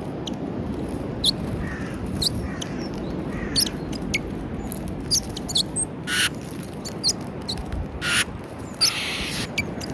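Small wild birds at a peanut feeder in snow: scattered short, high chirps, with three brief scratchy noises about six, eight and nine seconds in, over a steady low background rumble.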